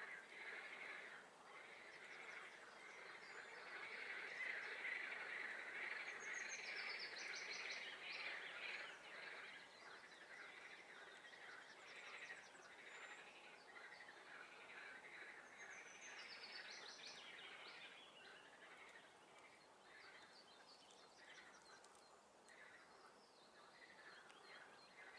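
A faint, continuous chorus of frogs calling, with songbirds singing over it; twice, a bird's high, fast trill stands out, about a quarter and about two-thirds of the way through.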